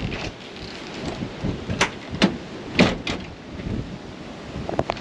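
Storm wind and surf rushing, with several sharp knocks around the middle.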